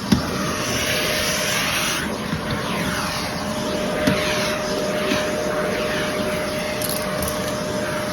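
Vacuum cleaner running steadily, with a dense rushing noise and a steady whine. There is a short knock just after the start and another about four seconds in.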